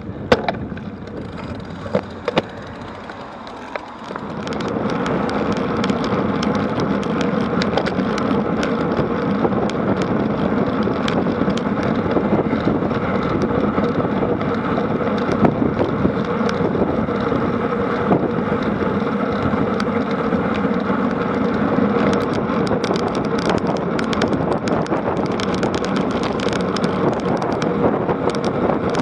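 Tyres rolling on a road with wind buffeting an action-camera microphone, with a few clicks at first. About four seconds in it turns into a steady, louder rush, as from a rise in speed.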